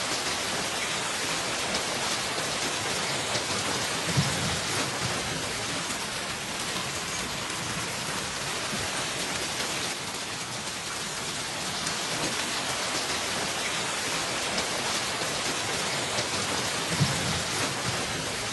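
Hailstorm: a dense, steady pelting of hailstones and rain on hard surfaces, with countless fine ticks of impacts. Two brief low thuds stand out, about four seconds in and near the end.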